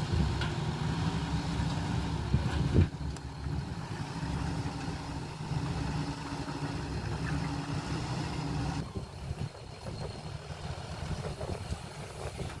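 Diesel engine of a dump truck or bulldozer running steadily, with one loud clank just under three seconds in; the engine sound drops to a quieter level about nine seconds in.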